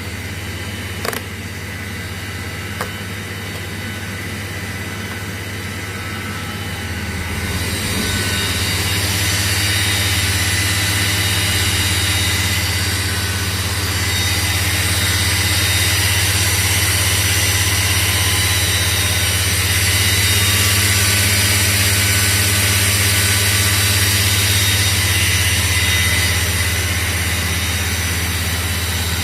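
Mori Seiki NL-2000SY/500 CNC lathe running under power: a steady machine hum with several whining tones and a few clicks early on, growing louder and hissier about seven seconds in and then holding steady.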